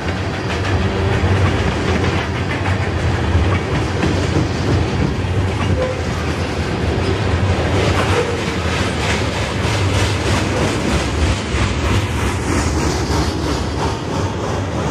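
Freight train of tank cars rolling past, a steady rumble of steel wheels on rail with a regular clickety-clack of wheels over the track, more distinct in the second half.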